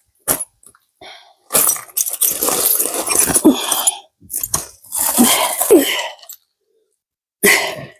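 Scraping, knocking and rustling as a person clambers in through a window of a derelict house, in two long bouts and a short knock near the end.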